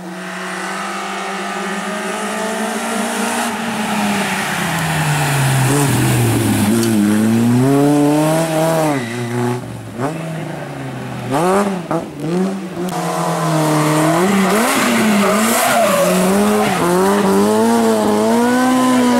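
Rally car engine at full throttle, getting louder as it approaches, with the revs climbing and dropping sharply again and again through gear changes and throttle lifts, then held high near the end.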